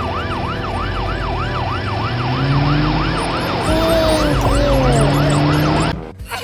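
Emergency-vehicle siren in a fast, repeating yelp, rising and falling about three times a second, with lower sliding tones beneath it; it cuts off suddenly about six seconds in.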